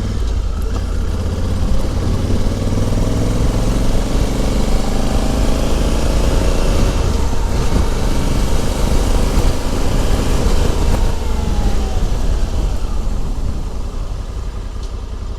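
Honda Africa Twin CRF1100L's parallel-twin engine running under way, its pitch climbing through the first several seconds and then falling away after about eleven seconds as the throttle is eased, over a steady rush of wind and road noise.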